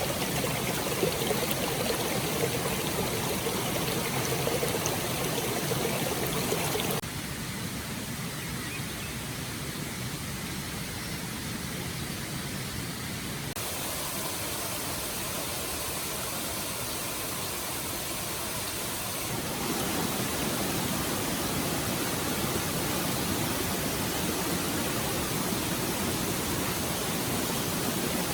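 Stream water running in a steady rush. The level drops suddenly about a quarter of the way in and comes back up about two-thirds of the way in.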